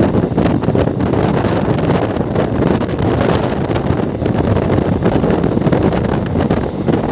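Wind buffeting the microphone over the running noise of a moving express passenger train. The sound is loud and steady, with no break.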